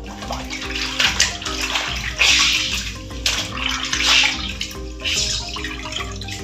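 Water splashing and running in several surges, as in washing by hand, over background music.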